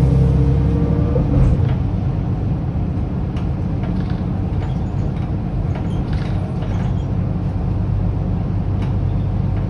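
Mercedes-Benz O530 Citaro city bus with its OM906hLA straight-six diesel running. The engine note is strong at first and drops off about a second in to a lower rumble, with a few light clicks and rattles.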